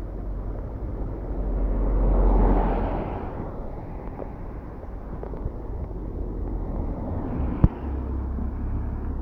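A vehicle passing on a wet road, its tyres hissing in a swell that rises and fades about two to three seconds in, over a steady outdoor rumble. A single sharp click comes near the end.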